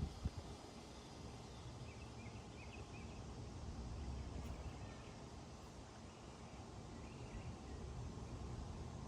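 Quiet outdoor ambience: a steady low rumble that swells a little around the middle and again near the end, with a few faint bird chirps over it.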